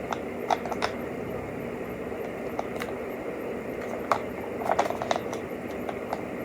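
Hands working at a plastic Happy Meal toy package to get it open: scattered short crinkles and clicks over a steady low hum.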